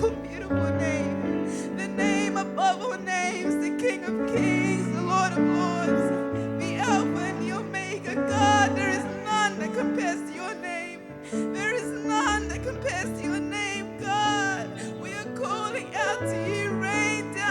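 Live gospel worship music: sustained keyboard chords that change every second or two, with voices singing over them.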